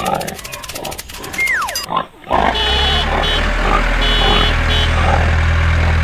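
Pig grunts and oinks, with a quick falling whistle about a second and a half in. From about two and a half seconds, a steady low tractor engine sound runs under further grunts, with several short bursts of high beeping.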